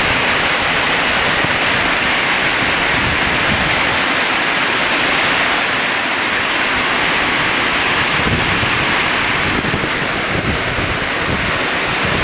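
Strong wind and heavy rain: a loud, steady rush of rain, with gusts of wind rumbling on the microphone.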